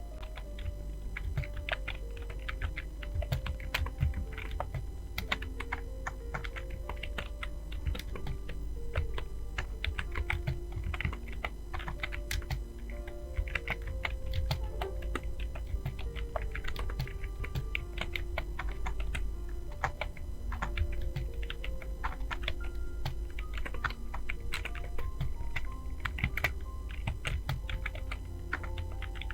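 Fast, continuous typing on a computer keyboard, a rapid irregular stream of key clicks, over soft background music.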